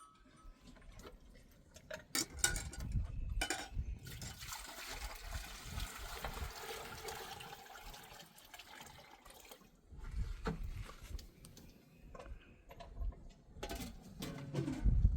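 Water splashing as it is poured, a steady pour of several seconds, with a few knocks just before it.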